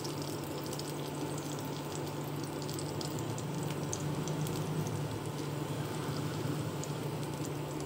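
Eggplant slices frying in mustard oil in a pan: a steady gentle sizzle with fine scattered crackles, over a low steady hum.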